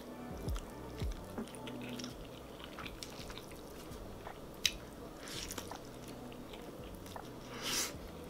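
A person chewing mouthfuls of fettuccine Alfredo, with background music underneath. There is a sharp click about four and a half seconds in, and two hissy bursts of breath, one about five seconds in and one near the end.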